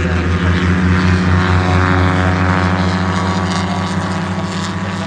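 Pre-war racing car engine running with a deep, steady note, getting gradually quieter over the last couple of seconds.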